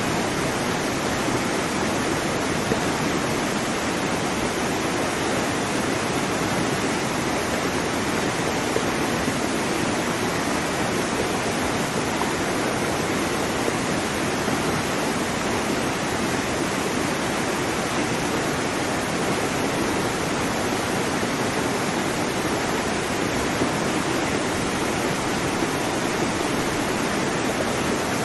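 Waterfall: water falling and splashing in a dense, steady rush without a break.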